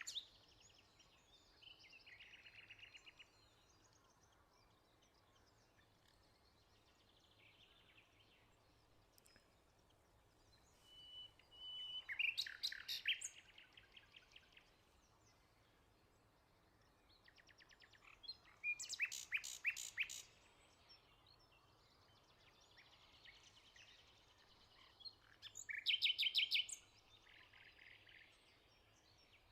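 Several wild birds calling and singing, with bursts of rapid repeated notes about twelve, nineteen and twenty-six seconds in, and fainter chirps between them.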